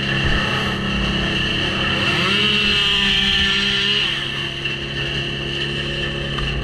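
Chainsaw engine running steadily, revved up about two seconds in, held high for about two seconds, then let back down.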